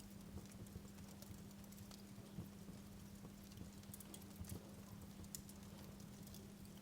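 Wood fire in a fireplace crackling quietly, with scattered small pops and snaps at irregular intervals over a faint steady hum.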